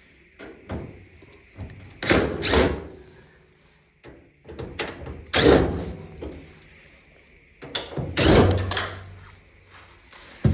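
Dryer cabinet parts clunking and knocking as a panel is worked free of its hooks during disassembly: a series of irregular knocks, loudest about two, five and eight seconds in.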